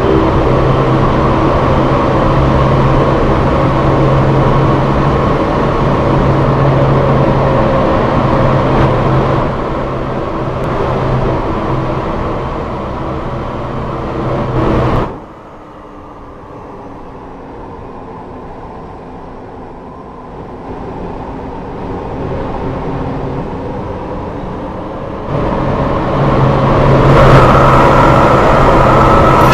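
A first-generation MRT Line 3 light-rail train (ČKD Tatra) running, with a loud steady rumble and hum. About halfway through the noise drops suddenly and a quieter falling whine is heard for several seconds. The loud running noise returns near the end.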